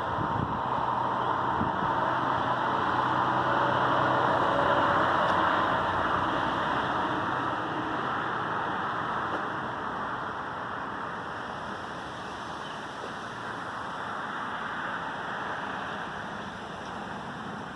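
Wind, a steady rushing noise that swells over the first few seconds and then slowly eases off.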